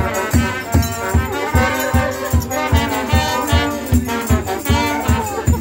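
Brass band playing a lively tune, brass instruments holding the melody over a steady bass drum beat of about two to three strokes a second.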